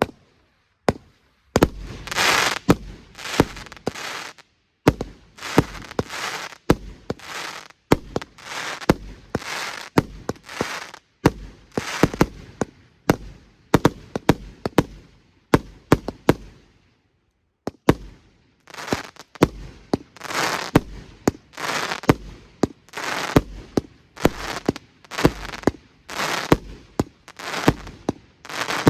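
A 90-shot consumer fireworks cake (the 'Wild West' MB140 battery) firing shot after shot, about one to two a second. Each shot is a sharp crack followed by a short noisy burst. The firing pauses for about a second and a half midway, then carries on.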